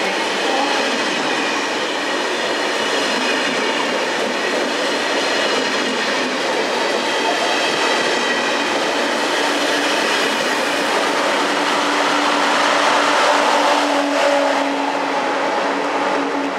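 TGV trainset rolling past along a station platform: a steady, loud rumble of wheels on rail with some clatter, keeping an even level throughout.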